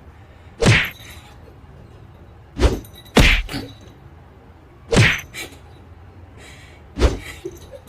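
Five sharp knocks or thuds at uneven intervals, most followed by a fainter second knock, over a steady background hiss.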